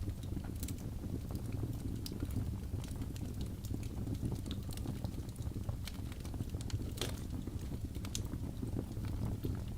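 Birch logs burning in a fireplace: a steady low rumble of flames with irregular crackles and pops, one sharper pop about seven seconds in.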